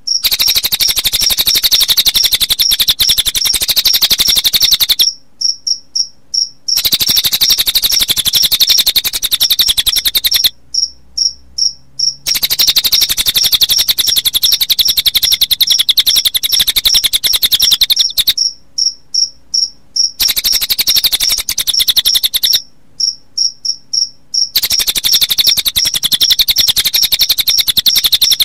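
A recorded combination of cililin bird song and cricket chirping: a dense, very fast high trill with a steady string of sharp, high repeated notes over it. The dense trill stops four times for a second or two, leaving only short separate pulses, then starts again.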